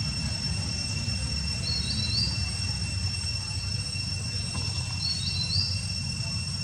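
Steady high insect trilling in the background, with a short rising bird chirp heard twice, about two and five seconds in, over a constant low rumble.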